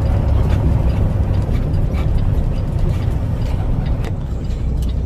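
Truck on the move: steady low engine rumble with road noise.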